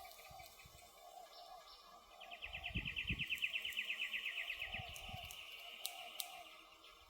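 A bird gives a rapid trill of about ten notes a second for some three seconds in the middle, over a faint campfire crackle with a couple of sharp pops near the end.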